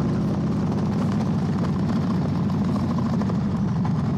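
Motorcycle engine running steadily under the rider, with an even low drone that shifts slightly in pitch about a second in.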